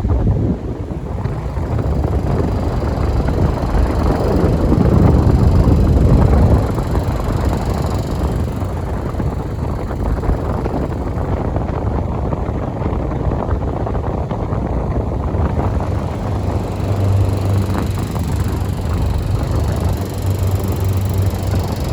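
Delta Gold 50 cm electric fan running, its airflow buffeting the microphone as a loud rushing noise over a low motor hum. It starts abruptly and swells for a few seconds before settling.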